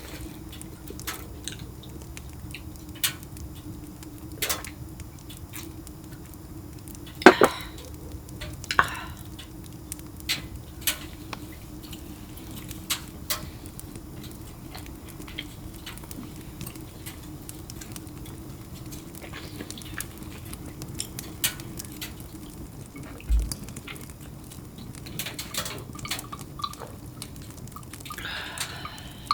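Scattered light clinks and knocks of dishes and utensils, with one sharp knock about seven seconds in, over a steady low hum.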